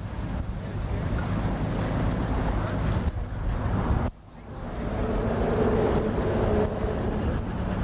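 Motorboat engine running under way, with water rushing past the hull and wind buffeting the microphone. The sound drops out suddenly about four seconds in, then comes back.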